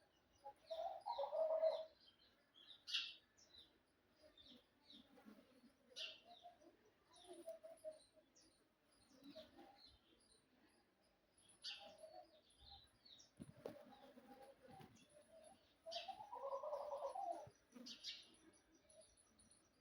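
Birds calling: many short, high chirps scattered throughout, with two louder bouts of lower-pitched calls, about a second in and again near the end.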